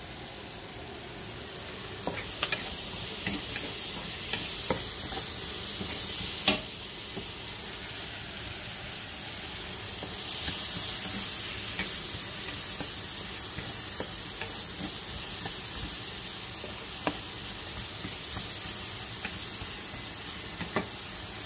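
Sliced onions and ginger sizzling as they sauté in a wok, stirred with a wooden spatula that clicks and scrapes against the pan now and then, the sharpest click about six seconds in.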